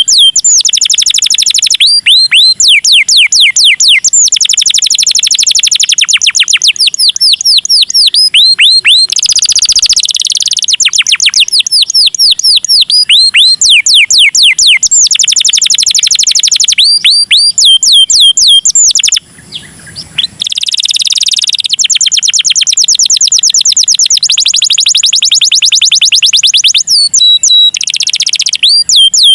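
Canary singing a long song of fast trills: rolls of quick downward-sweeping notes repeated many times a second, changing from one trill to the next, with a short break about two-thirds of the way through.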